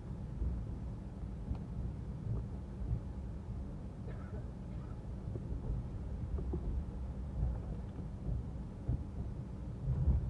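Garib Rath Express passenger train running, a steady low rumble heard from on board, with a few faint knocks.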